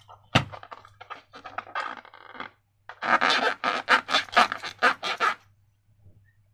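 Slime being squished and worked by hand, making wet, sticky crackling squelches in two runs of about two seconds each, the second louder.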